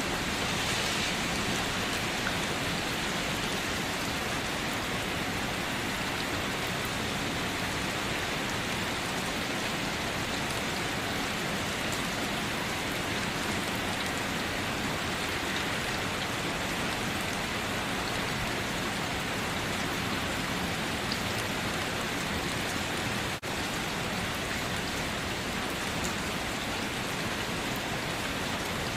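Steady rain, an even hiss of many drops with no let-up, broken only by a momentary dropout about 23 seconds in.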